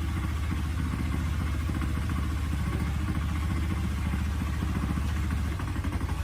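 An engine running steadily at an even speed, with a rapid, regular firing beat.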